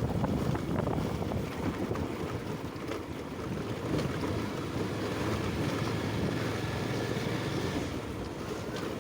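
Wind noise on the microphone of a motorcycle being ridden slowly, with the bike's engine running low and steady underneath.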